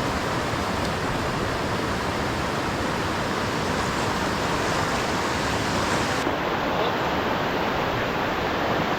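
Steady rushing of fast-flowing high water, an even, unbroken roar.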